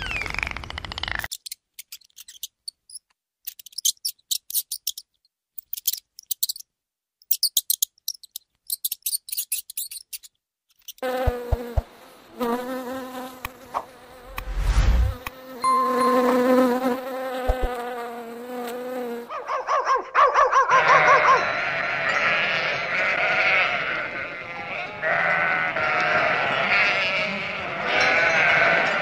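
A run of sharp, high clicks, then a bee buzzing with a steady drone for about eight seconds. After a short pause, a flock of sheep bleats over one another through the last nine seconds.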